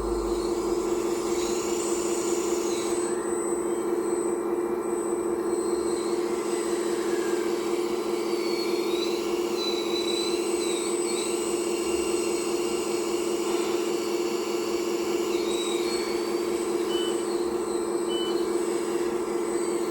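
Hydraulic pump of an RC hydraulic Volvo 360L excavator whining steadily, with fainter higher whines rising and falling above it as the machine works.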